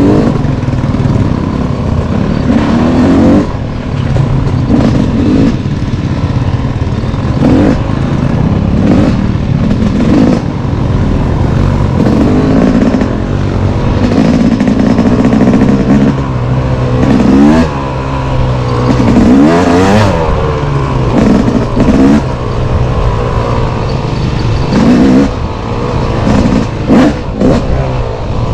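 Single-cylinder engine of an off-road trail vehicle being ridden hard, revving up and falling back every second or two as the throttle is worked. Sharp knocks and clatter are mixed in.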